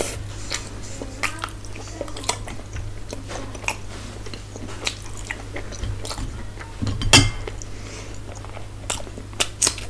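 Close-miked chewing and mouth sounds of someone eating with her fingers: many small wet smacks and clicks, with one louder bite about seven seconds in, over a low steady hum.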